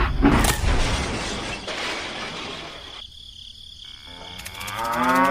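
A shattering crash about half a second in, its noise fading away over the next two seconds. Near the end a cow starts to moo.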